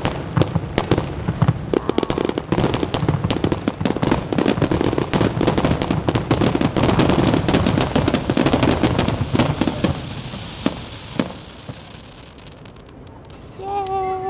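Fireworks display in a dense barrage of rapid cracks and bangs over a continuous rumble. The barrage thins out after about ten seconds, leaving a couple of last pops.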